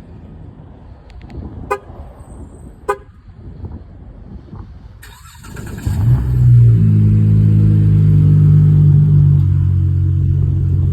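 Two short car-horn chirps, then a 2020 Dodge Charger SXT's 3.6-litre V6 cranks and catches about six seconds in on a cold start, flaring briefly before settling into a steady fast idle.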